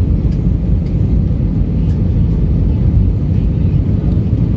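Airliner cabin noise: the steady, low rumble of the jet engines and rushing air heard from inside the cabin.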